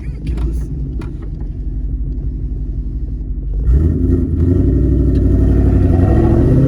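V8 car engine heard from inside the cabin, running with a low rumble, then opening up hard about four seconds in, its pitch climbing steadily as the car accelerates through the revs.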